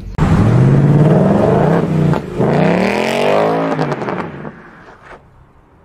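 Ford Mustang Bullitt's V8 engine accelerating hard: the revs climb, dip briefly at a gearchange about two seconds in, climb again, then the engine note falls away about four and a half seconds in.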